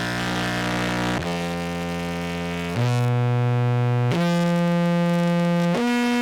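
Amplified contrabass clarinet played through an effects pedal chain with compression, sounding five long held notes in turn, each lasting a second or more, with the pitch changing between them.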